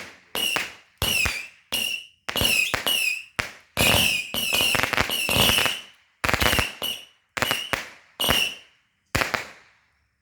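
Firecrackers going off in a rapid, irregular string: over a dozen sharp bangs, each ringing briefly, that stop shortly before the end.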